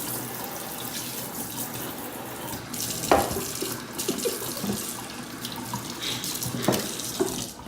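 Kitchen tap water spraying into a sink as a whole raw chicken is rinsed out under it, with a couple of sharp knocks about three seconds in and near the end.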